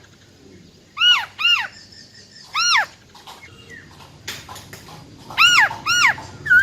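Female black-throated laughingthrush calling: five loud, clear arched whistles, each rising and falling within about a third of a second. They come as a pair, then a single note, then another pair near the end.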